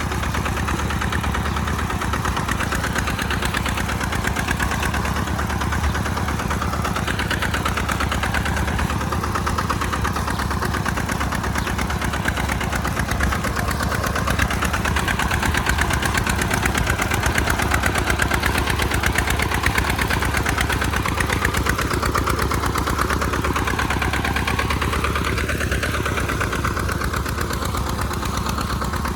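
Kubota RT140 Plus single-cylinder diesel engine on a tractor running steadily while plowing in mud, with a slight waver in pitch for a few seconds near the end.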